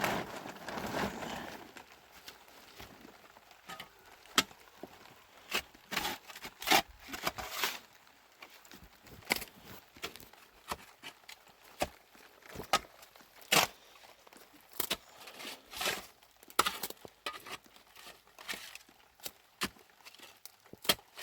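Irregular sharp taps, knocks and short scrapes from hand work, about one or two a second, after a brief rustle in the first two seconds.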